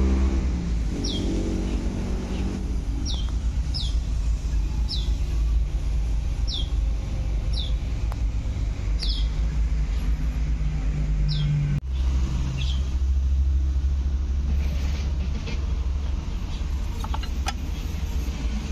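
A low, steady rumble with a bird giving short, falling chirps about once a second, which stop about two-thirds of the way through.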